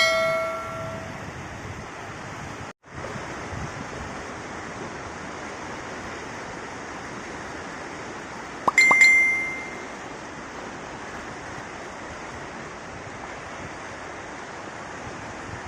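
Steady rush of the Ganga river in flood. A bell is struck and rings out, once at the start and again about nine seconds in, and the sound cuts out for a moment near three seconds.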